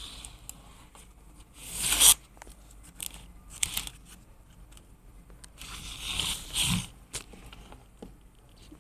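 Handling noise: several short bursts of tearing and scraping, the loudest about two seconds in and a longer one around six seconds.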